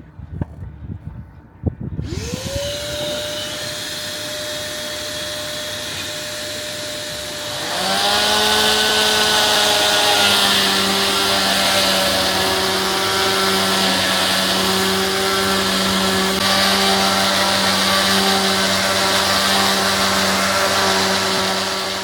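Electric sanding machine with coarse 40-grit paper starting up about two seconds in with a rising whine, then running steadily. About eight seconds in it grows louder and lower in pitch, with a gritty hiss, as it sands the soft pine gaff down to bare wood.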